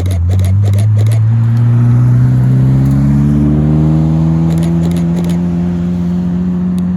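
A supercar's engine pulling away loudly and accelerating gently in one gear, its note rising slowly and steadily in pitch.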